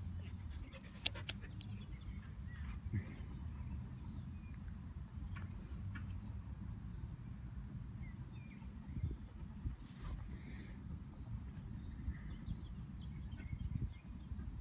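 A small bird singing short, high notes in quick groups of three or four, repeated every few seconds, over a steady low rumble.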